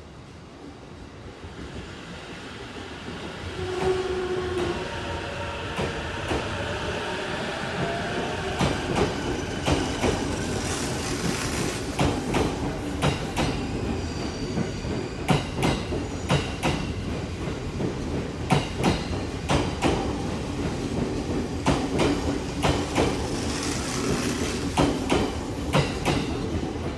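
Electric commuter train pulling out of the platform. Its traction motors whine with rising tones for the first few seconds, then the wheels click steadily over the rail joints as the cars roll past.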